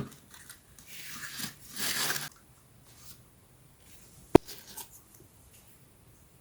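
Small wooden 3D puzzle pieces being handled: a knock at the start, a second or so of rubbing and scraping, then one sharp click about four seconds in, followed by a few faint clicks.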